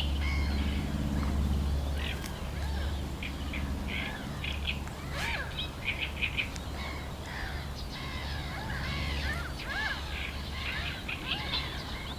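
Several birds chirping and calling, quick high chirps mixed with arching calls, over a steady low rumble.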